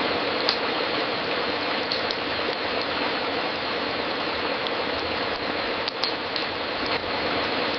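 Wood fire crackling in a fireplace: a steady hiss with scattered sharp pops, a few close together about six seconds in.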